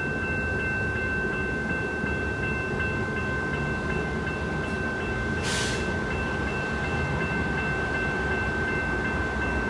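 Electric suburban train running with a steady low rumble and a constant high whine that neither rises nor falls. There is a short hiss of air about five and a half seconds in.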